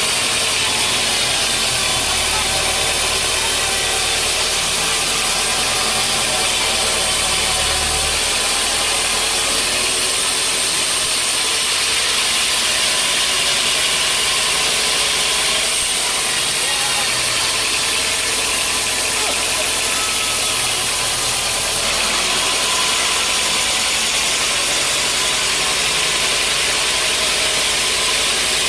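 Sawmill machinery running steadily with a constant loud mechanical drone and a high hiss.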